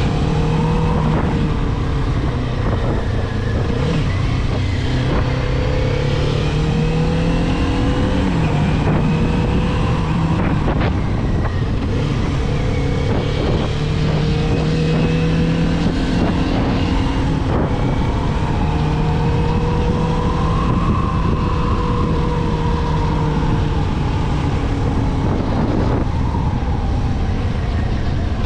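Kawasaki 400 naked motorcycle's engine running under way, its note holding steady between brief breaks and shifts in pitch every few seconds, over a heavy rush of wind on the microphone.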